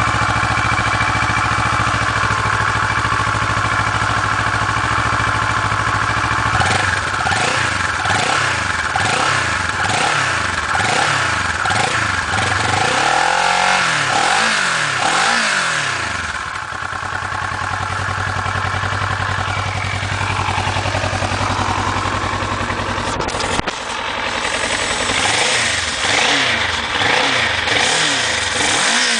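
Kawasaki ER-6n's parallel-twin engine on its stock exhaust, idling steadily, then blipped repeatedly in quick revs from about a quarter of the way in, settling back to idle in the middle, and revved again several times near the end.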